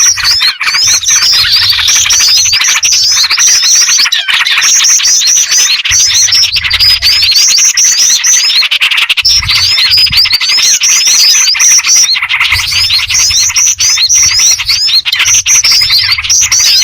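Bird-lure recording of many small birds chirping at once: short, high, rapid chirp phrases repeat every second or so over continuous chatter. It is a mix of black-winged flycatcher-shrike (jingjing batu), sooty-headed bulbul (trucukan) and small-bird calls.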